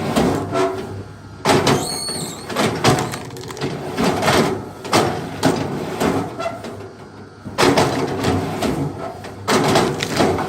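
Wood being split and worked: an irregular series of heavy knocks and cracks, the loudest strikes about a second and a half, three, seven and a half and nine and a half seconds in, with a short squeak near two seconds.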